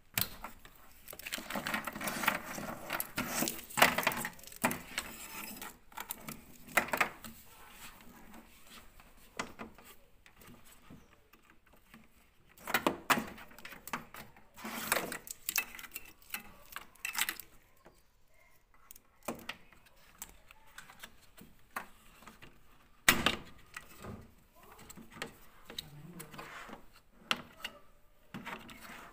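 Irregular clicks, rattles and scrapes of parts and tools being handled, with a few sharp knocks, the loudest about two-thirds of the way through.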